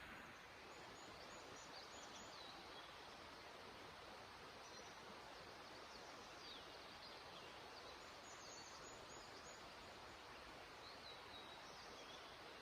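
Near silence: faint steady outdoor background hiss with a few scattered faint, high bird chirps.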